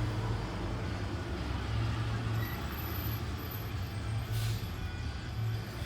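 Steady low engine hum and traffic noise of road vehicles, with a short hiss about four seconds in.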